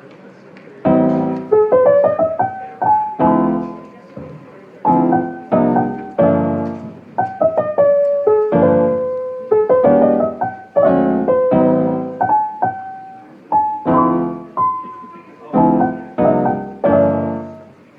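Background piano music: soft chords under a simple melody, each note struck and left to fade, starting about a second in.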